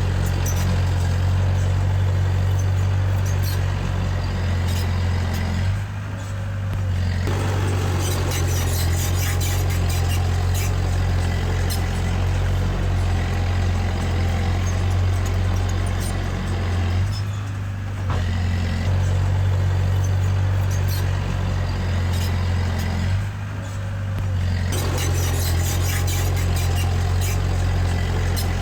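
Komatsu D20P bulldozer's diesel engine running steadily under load, with the metallic clatter of its tracks over it. The clatter and engine noise ease off briefly three times, about six, seventeen and twenty-three seconds in.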